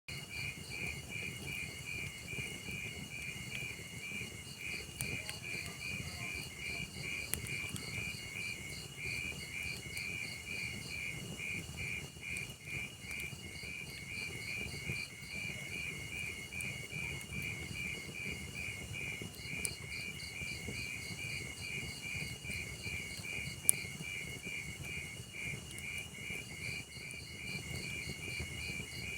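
Crickets chirping in a steady, fast pulsing rhythm over the low rush of a burning wood fire, with a few sharp crackles from the logs, the loudest a single pop a little past three-quarters in.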